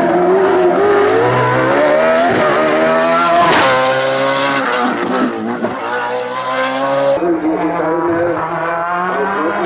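Hillclimb race car engine at full throttle, its pitch climbing and then dropping back at gear changes. About seven seconds in, the sound switches abruptly to a different engine note.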